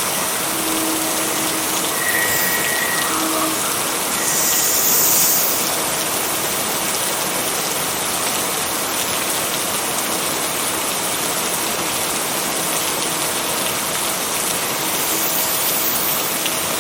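Steady heavy rain, a dense even hiss of falling water, with a brief louder surge about four seconds in.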